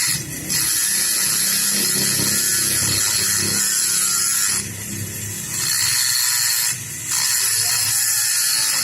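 A power tool running with a steady high hiss, stopping briefly near the start, for about a second midway, and once more later.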